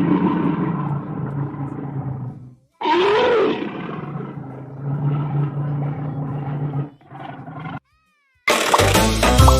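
Animal sound effects: two long, low pitched calls, the second rising and then falling in pitch, followed by a brief high chirp. A bright children's music jingle starts near the end.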